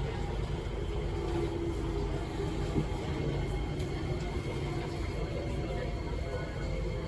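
Steady hum and rumble inside a Kawasaki-CRRC Sifang C151C MRT carriage, with faint steady whining tones from the train's electrical equipment.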